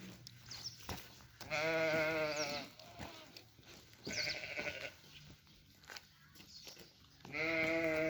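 Livestock bleating: three wavering calls, the first lasting about a second, a shorter one midway, and a third starting near the end.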